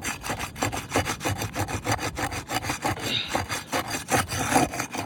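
Repeated irregular scraping and rubbing as asphalt roof shingles are worked loose to break their seal.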